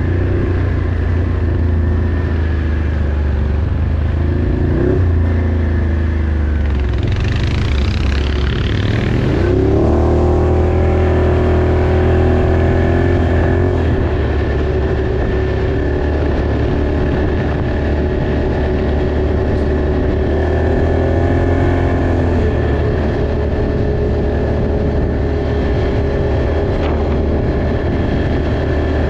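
Off-road vehicle engine running under way, its pitch rising and falling with throttle changes several times, with a brief rush of noise about seven to nine seconds in.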